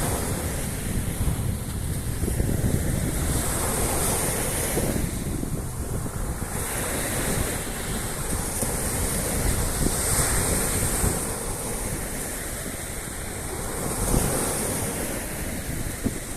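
Sea waves washing onto a beach, a surge of hiss every three to four seconds, with wind buffeting the microphone.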